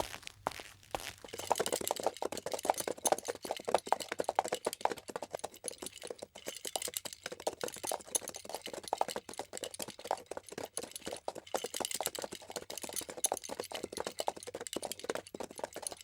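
Footsteps crunching on a loose, crackly surface, a dense run of short crunches. Sparse and quieter for about the first second and a half, then busy and steady.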